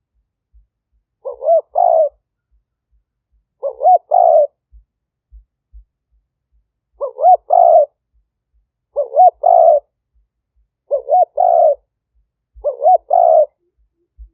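Spotted dove cooing: six short phrases about two seconds apart, each a few quick coo notes run together.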